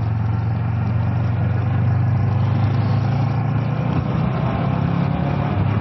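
Kawasaki ER-6f motorcycle's parallel-twin engine running steadily while under way, under a steady wash of wind and road noise.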